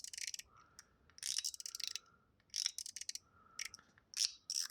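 Blackened zirconium mechanical fidget slider clicking through its spring-and-ball detents as the slides are pushed along. It comes in about six quick runs of clicks, with a faint ring between some of them.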